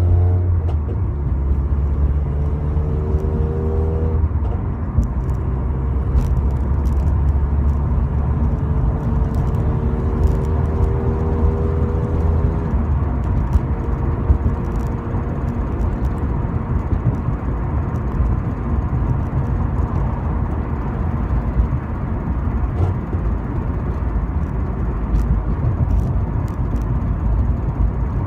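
2008 Honda Civic Si's four-cylinder engine breathing through a PLM header, test pipe and 2.5-inch catback with the stock axle-back muffler, pulling under load. Its pitch drops about four seconds in, then climbs slowly until about twelve seconds in, after which it settles to a steadier, quieter running sound under road noise.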